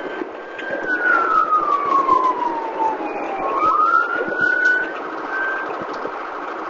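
Police car siren on wail, falling slowly in pitch over about two seconds, then rising again and cutting off about five seconds in, over a steady rushing noise.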